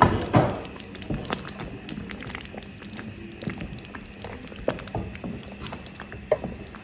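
Thick tomato stew with duck meat bubbling in a pot, with irregular small pops and clicks. The loudest of them come right at the start.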